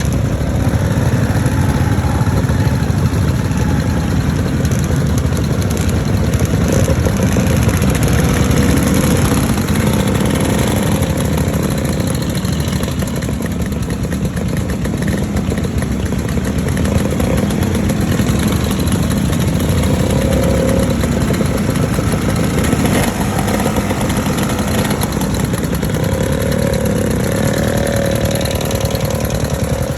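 Classic motorcycle engines running at idle, with a few brief rises in engine speed.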